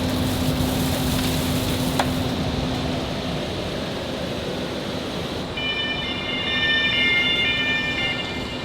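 Precast concrete factory machinery running with a steady mechanical din and a low hum that fades out about three seconds in. From about five and a half seconds to near the end, a high squeal of several steady tones sounds over it.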